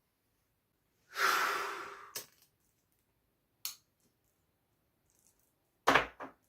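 A single breath out close to the microphone about a second in, fading over about a second, followed by a few short clicks and taps.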